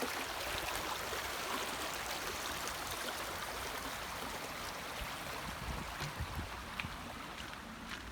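A stream rushing steadily over stones under a stone road bridge.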